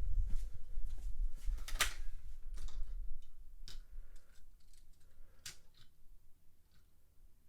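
Sharp clicks and taps of die-cast toy cars and plastic track parts being handled, with a low rumble that fades over the first three seconds.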